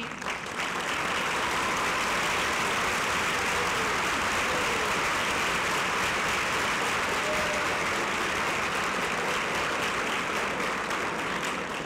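A theatre audience applauding, a dense steady clapping that swells in within the first second and tapers off near the end.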